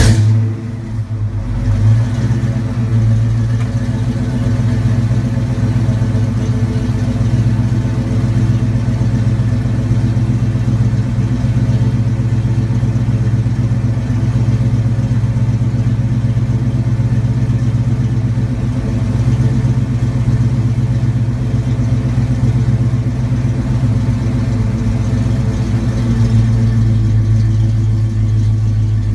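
1989 Ford Mustang 5.0 (302 V8) idling steadily through BBK shorty headers, an off-road H-pipe and two-chamber Flowmaster mufflers on 2.5-inch pipes. A brief flare right after start-up settles into the idle.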